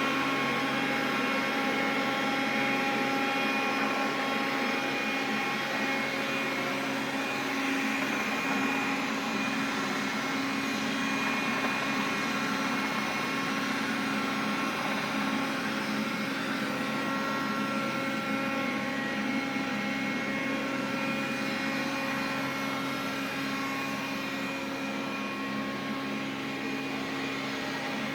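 Xiaomi vacuum cleaner running steadily: a continuous motor hum with several steady whining tones over it and no change in speed.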